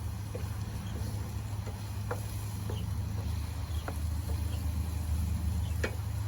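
Chopped onions frying in oil in a pan, giving a faint crackle with scattered small pops, over a steady low hum.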